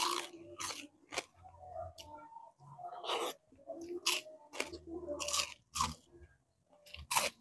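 Crispy fried bisugo (threadfin bream) being bitten and chewed: a string of sharp, irregularly spaced crunches with softer chewing in between.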